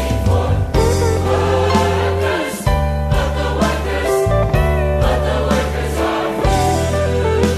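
A choir singing a Christian song over music with sustained bass notes.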